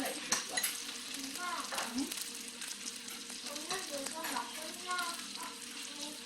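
Busy restaurant dining room: a steady hiss of background chatter from other tables, with a few clinks of cutlery and dishes.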